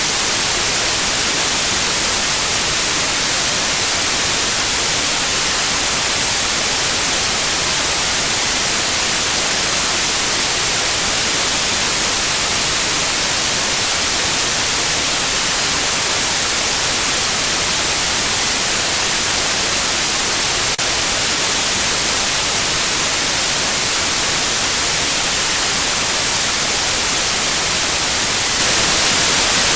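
Synthesized white-noise hiss with a steady, very high-pitched tone at 9645 Hz laid over it, a tinnitus sound-therapy signal. The tone drops out for a moment near the start.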